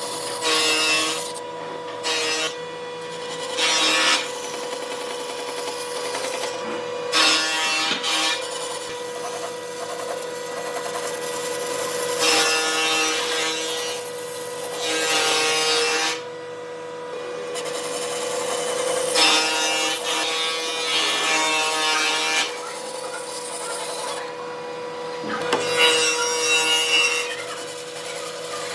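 Wood being cut or abraded with a tool in repeated rasping passes, each lasting one to three seconds, over a steady hum.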